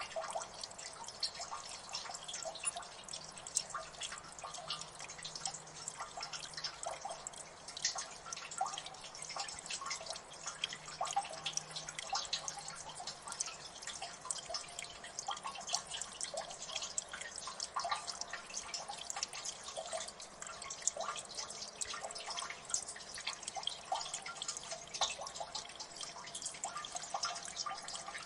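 Water dripping in a gully: many irregular drops falling at uneven intervals, several a second, over a faint background wash.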